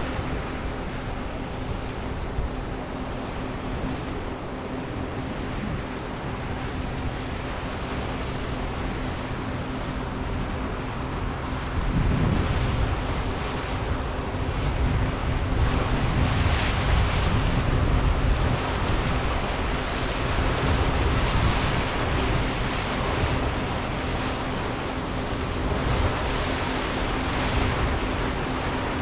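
John Deere 9560 walker combine running while harvesting corn: a steady machine drone with a constant low hum under a broad rushing noise, growing louder about twelve seconds in.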